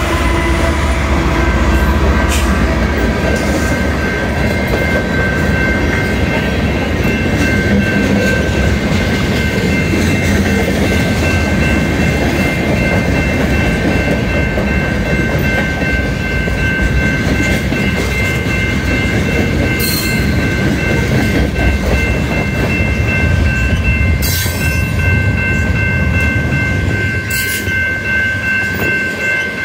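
Freight train passing close by: the last of three diesel locomotives, a BNSF ES44DC, goes by first, then a long run of freight cars. Their wheels make a steady, loud rumble on the rails with clickety-clack and a few sharp clacks. A steady high-pitched tone runs over it from about two seconds in.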